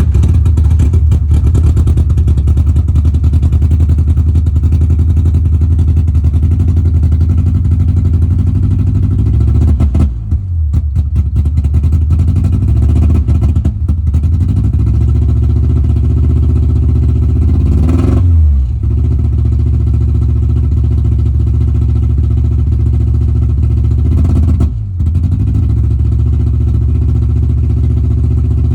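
Honda K24 four-cylinder engine running at a steady low speed, stumbling briefly about four times with short dips, one of them a quick drop in pitch. The engine has a persistent misfire, which the owner is 98% sure comes from the old OEM throttle body and its gasket.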